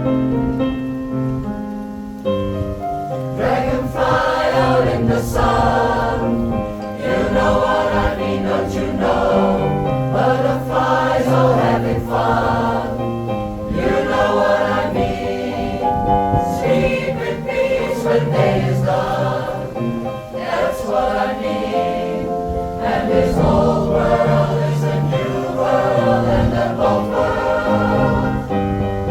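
Pop choir singing a song in multi-part harmony, holding sustained chords that change every second or two.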